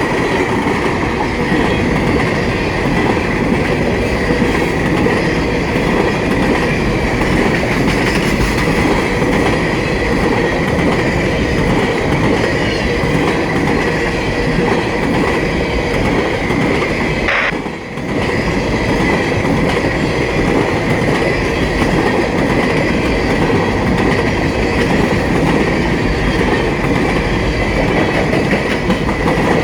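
Freight train cars rolling past on the main line: a continuous steady rumble with clickety-clack of wheels over rail joints and a steady high-pitched tone running through it. The sound dips briefly about eighteen seconds in, then carries on.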